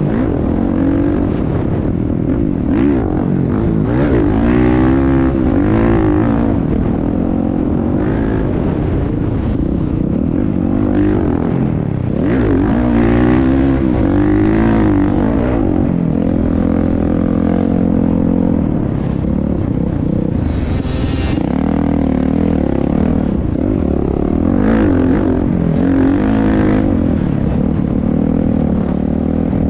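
Motocross motorcycle engines running hard, their pitch rising and falling over and over as the throttle is opened and closed. There is a short hiss about 21 seconds in.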